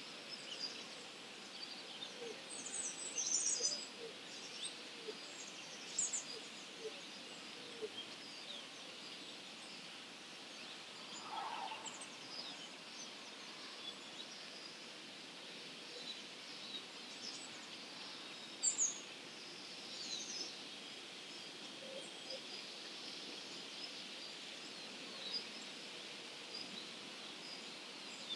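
Distant dawn chorus of songbirds: many faint overlapping chirps and song phrases, with a few nearer, brighter calls standing out briefly now and then.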